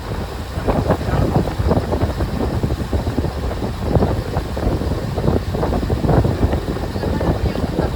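Taxi boat's engine running with wind buffeting the microphone in uneven gusts.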